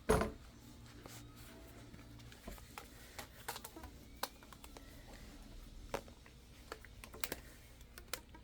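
Scattered light clicks and taps as rubber bands are stretched and fitted around an iPad 2 to clamp its newly glued glass, with a louder knock right at the start.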